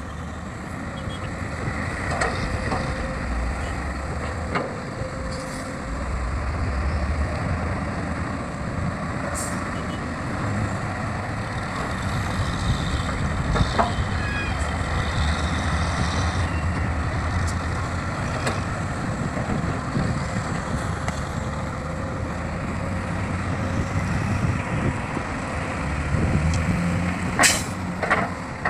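Heavy diesel construction machinery running, the engine rumble swelling and easing, with a few sharp knocks near the end.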